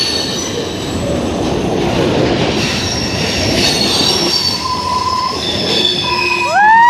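Freight train cars rolling past at close range, a steady rumble with high-pitched wheel squeal. Near the end a loud, sustained screech rises in.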